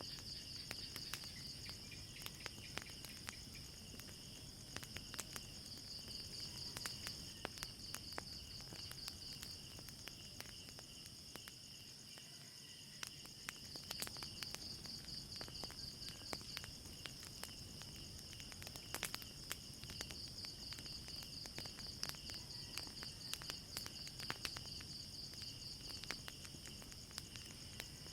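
Crickets chirping in high, pulsing trills that swell and fade in bouts, over a wood fire crackling with scattered sharp pops.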